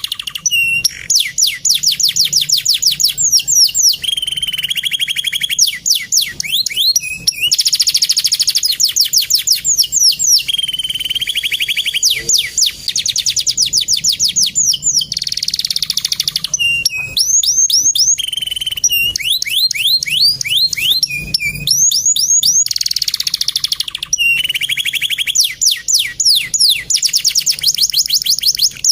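Male canary singing without pause: long, fast trills of rapidly repeated high notes, phrase after phrase, with short breaks and changes of note type every few seconds.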